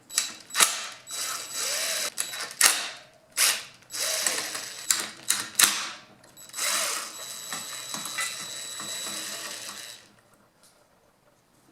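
Hand ratchet clicking in repeated strokes interspersed with knocks of metal tools, loosening the fasteners on a two-stroke engine's exhaust to get at the spark arrestor screen. It goes quiet about ten seconds in.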